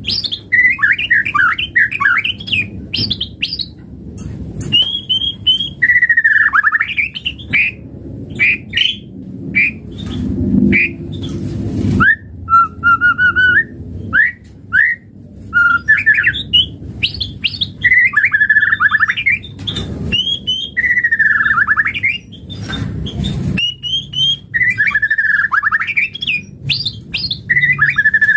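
White-rumped shama (murai batu) singing loudly and continuously. Its varied whistled phrases, downslurred notes and rapid trills are broken by short harsh chattering notes.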